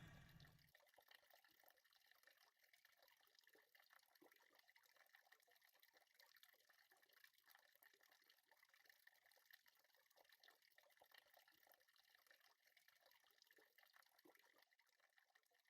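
Near silence with a faint, dense crackle of tiny clicks.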